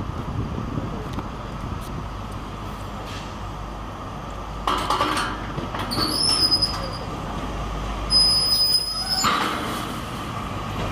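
Train moving over a steady low rumble, with two high-pitched metal squeals, about six and eight seconds in, each lasting about a second.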